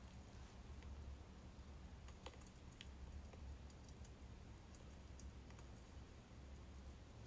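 Faint birch-wood fire crackling: scattered sharp pops at irregular intervals over a steady low hum.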